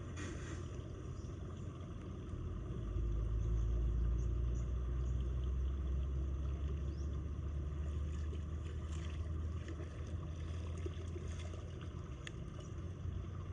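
Floodwater pouring down a storm drain: a steady low rumble that grows louder about three seconds in, with faint trickles and small splashes over it.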